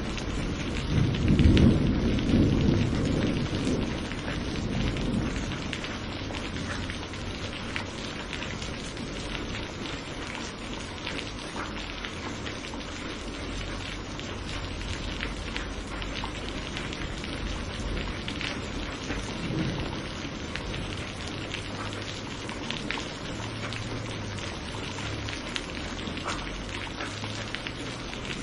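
Steady rain falling on a surface, with many individual drops ticking. A roll of thunder rumbles in the first few seconds and fades, and a faint low rumble comes again about two-thirds of the way through.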